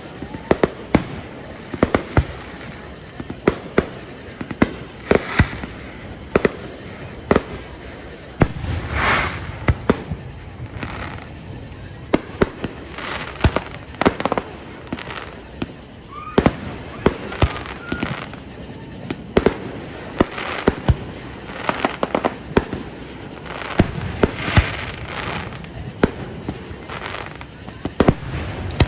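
Fireworks show in a steady barrage, with sharp bangs going off every second or so. Twice it swells into longer stretches of crackling.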